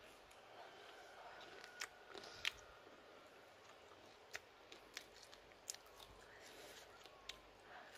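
Quiet chewing of grilled coconut worms, with a few short, sharp mouth clicks and crunches a second or more apart.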